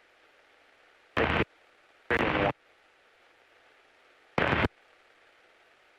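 Three short bursts of sound come through the helicopter's cockpit audio feed, the second one the longest. Each cuts in and out abruptly, with near silence between them.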